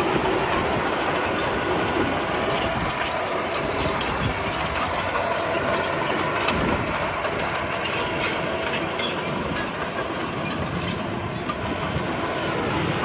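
Komatsu D31P crawler bulldozer running steadily, with scattered metallic clanks and rattles throughout.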